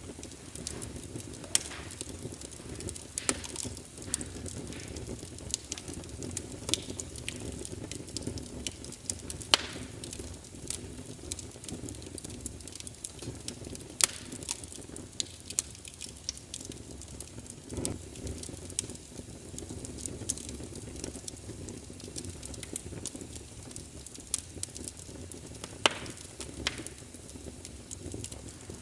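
Fireplace fire burning with a steady low rustle and frequent irregular sharp crackles and pops, a few of them noticeably louder.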